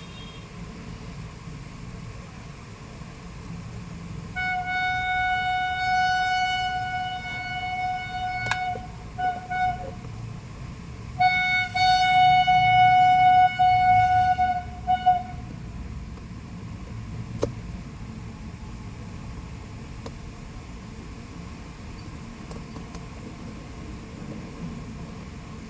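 A horn honking in two long blasts, each a few seconds long, with a couple of short toots after each, over a steady background hum.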